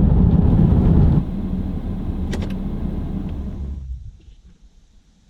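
Low rumble of a vehicle in motion, heard from inside. It drops suddenly about a second in, with a short click a little later, then fades out near the end.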